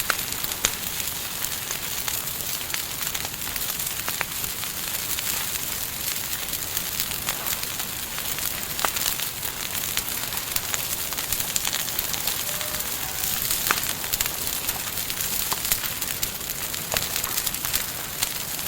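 Campfire burning, a steady hiss with frequent sharp crackles and pops from the burning wood.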